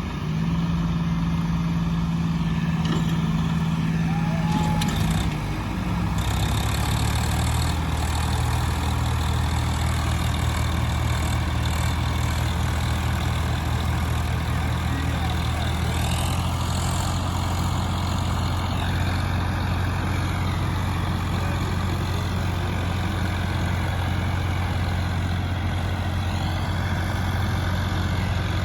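Tractor diesel engine running steadily and loud, working to pull a stuck tractor free. Its note drops to a lower pitch about five seconds in and stays there.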